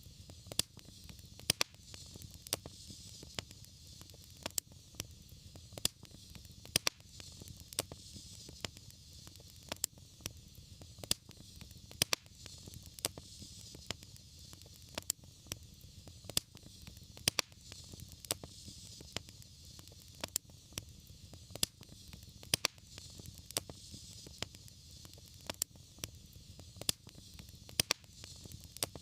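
Fireplace wood fire crackling: sharp, irregular pops about one or two a second over a steady low rumble and soft hiss.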